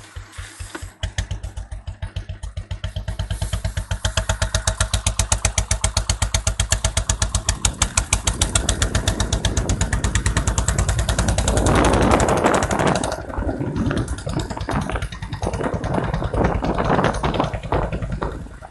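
Royal Enfield Classic 350 single-cylinder engine running through an aftermarket exhaust, idling with an even thump of roughly ten beats a second. About twelve seconds in it is revved hard, then the throttle is blipped unevenly.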